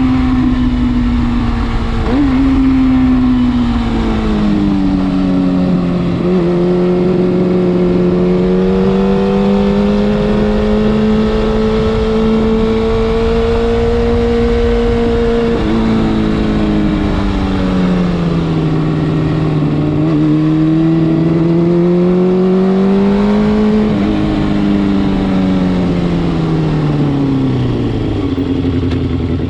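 Kawasaki Balius II's 250 cc inline-four running through an RPM 4-2-1 aftermarket exhaust on the move: its note drops sharply with a few quick upshifts in the first seconds, holds at a steady cruise, sags and climbs again, then falls away near the end as the bike slows. A low rush of wind and road noise runs under it.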